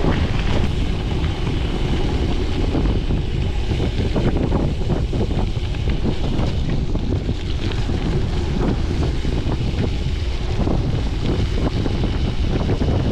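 Wind buffeting the microphone of a chest-mounted GoPro on a moving gravel bike, a steady heavy rumble, with the constant crackle of tyres rolling over a gravel road.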